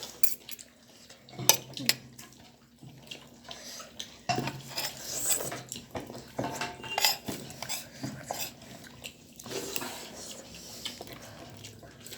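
Cutlery clinking and scraping against plates during a meal, in scattered sharp clicks.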